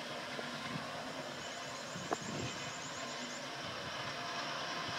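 Steady running noise of a train hauled by a pair of ALCo diesel locomotives, with a single sharp click about two seconds in.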